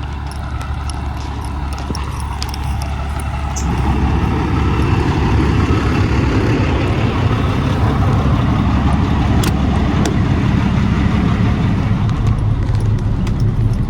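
An 18-wheeler's diesel engine running with a steady low rumble, getting louder and fuller about four seconds in. There are a couple of faint clicks near the middle.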